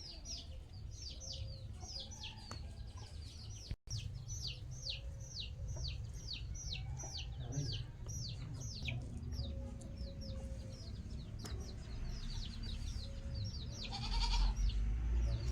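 Small birds chirping: a steady series of high chirps that fall in pitch, several each second. Under them is a low rumble, which swells loud near the end.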